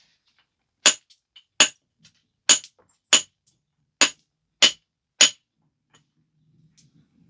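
Seven sharp percussion strikes with a billet on the edge of a stone biface, about one every two-thirds of a second, each with a bright clinking ring, as flakes are struck off to refine the biface.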